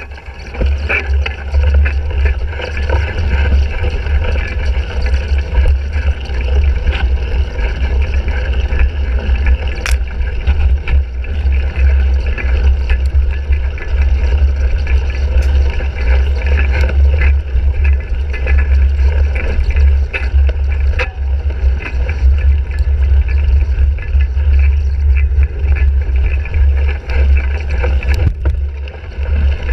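Heavy wind rumble on a handlebar-mounted action camera's microphone while riding a cyclocross bike off-road. Under it the bike rattles and the tyres roll, with scattered clicks and knocks.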